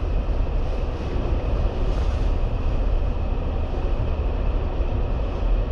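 Jeep Gladiator Rubicon driving slowly through snow: a steady low engine and road rumble with no change in pace.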